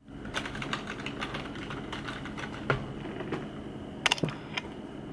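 Typing on a computer keyboard: irregular small key clicks, with a few louder clicks about three and four seconds in.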